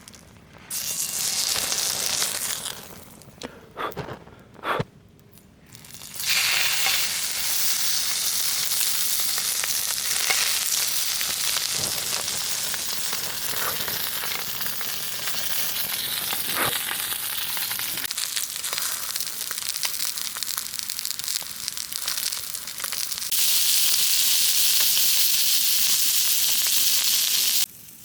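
Food sizzling in a hot pan, a steady frying hiss. It drops away for a few seconds near the start, with a couple of sharp clicks, then comes back and steps louder near the end.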